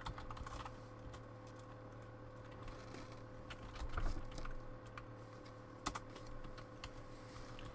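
Trading cards being handled and shuffled through: scattered light clicks and taps, a little busier around the middle, over a faint steady hum.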